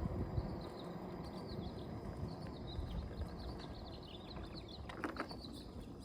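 Steady low rumble of wind and rolling noise from an electric unicycle ride, with small birds chirping over it throughout.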